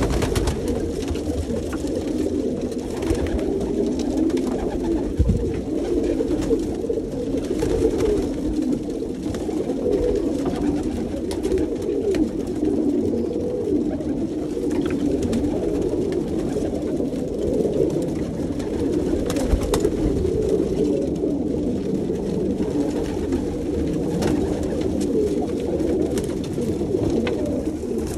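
A flock of domestic pigeons cooing together in a steady, overlapping chorus, with a few scattered sharp taps.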